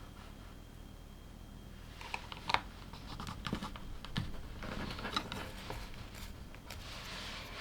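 Small plastic LEGO pieces clicking and rattling as they are handled and pressed together: scattered sharp clicks with bits of rustling, after about two quiet seconds.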